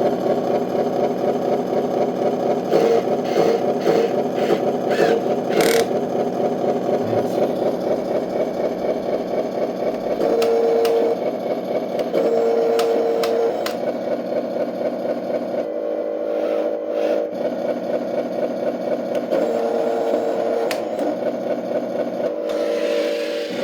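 RC scale truck's V8 engine sound module running steadily through its speaker, with a short steady tone sounding five times in quick succession, then a few longer ones, and scattered small clicks and whirring as the trailer's landing legs are lowered and the trailer is uncoupled.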